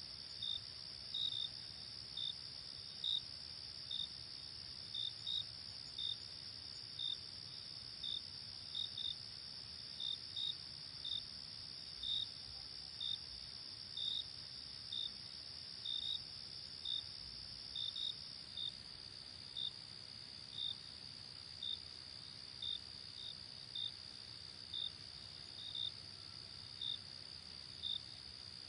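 Night chorus of crickets: a steady high trill underneath, with single short chirps standing out about once a second at an uneven pace.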